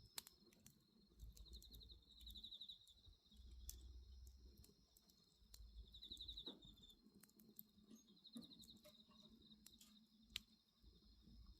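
Bonfire crackling quietly with scattered sharp pops, over crickets chirping in steady high trills that swell in short spells.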